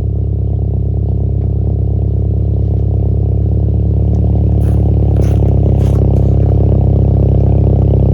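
A Subaru 1.5R's flat-four engine runs steadily through a custom 2.5-inch exhaust with the original catalytic converters and a single muffler, growing slightly louder. Three brief hisses come about halfway through.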